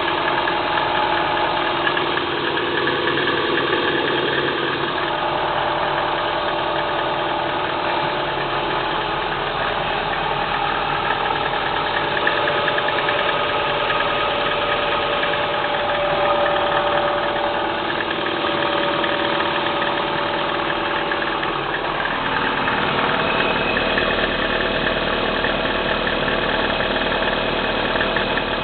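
Kia Spectra 1.6-litre four-cylinder engine idling on a cold start with a rattling knock running through the idle; the engine note shifts about 22 seconds in.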